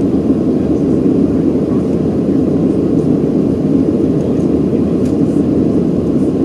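Steady low cabin noise of a Boeing 737-800 in flight: the rush of its engines and airflow heard from inside the cabin, even and unbroken.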